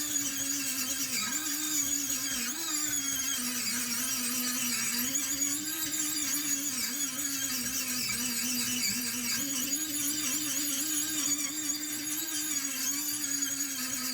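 Small electric power tool running steadily on rusty metal, its pitch dipping and recovering as it is pressed against the work.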